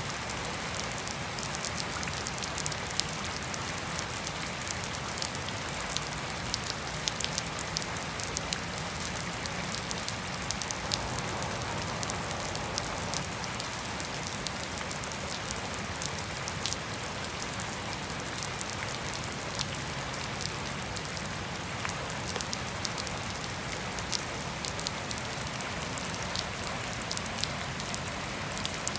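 Steady gentle rain falling on grass and wet pavement: an even hiss dotted with many sharp ticks of single drops striking.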